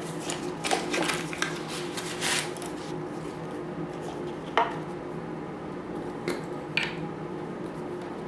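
Wooden lollipop sticks and a milk carton handled on a tabletop: light clattering and rustling at first, then a few sharp single taps, over a steady low hum.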